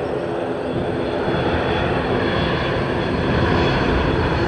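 Airliner engines running at an airport: a steady engine rush with a faint whine, growing slightly louder.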